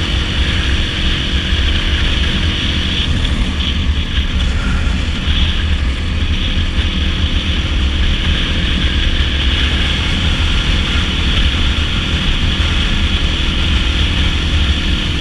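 Dirt bike engine running steadily at road speed, mixed with wind rush.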